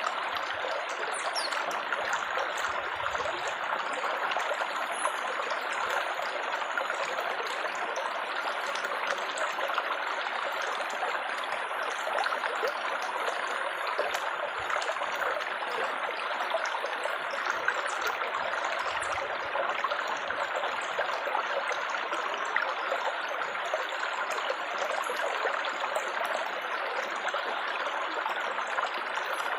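Water trickling and babbling steadily over stones, an even, unbroken splashing rush.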